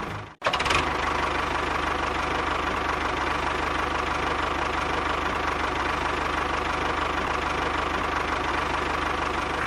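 Small engine running steadily with a fast, even knocking beat. The sound cuts out for a moment just after the start, then resumes unchanged.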